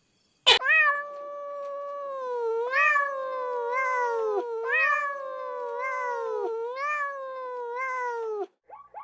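A cat yowling in one long, drawn-out wail that rises and falls in pitch several times, then cuts off abruptly.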